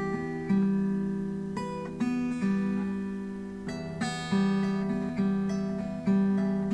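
Acoustic guitar played slowly, a chord struck about every second and a half and left to ring and fade.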